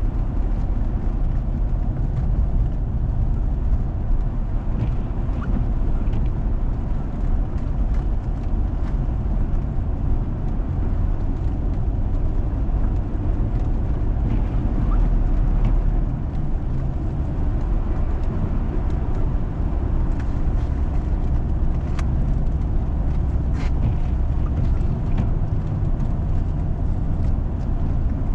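Steady low rumble of a car's engine and tyres while driving on a snow-covered road, with a few faint clicks; the sharpest click comes late on.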